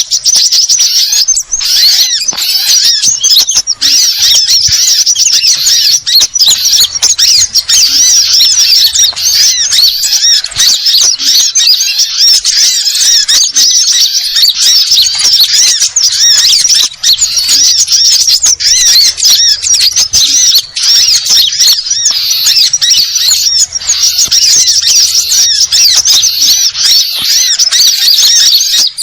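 Dense, continuous high-pitched twittering and chattering of a crowd of small birds, sunbirds among them, the packed mix of calls used as a bird-lure (pikat) recording.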